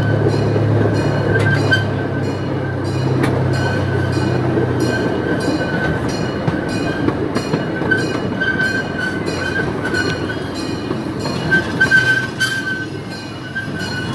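Park ride train rolling along its track: a steady rumble with rapid clicking from the wheels and an on-and-off high wheel squeal. A low hum fades out about five seconds in.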